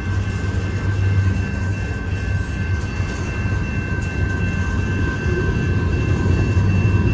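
Covered hopper cars of a freight train rolling past: a steady low rumble of steel wheels on rail, with a faint steady high-pitched ring above it.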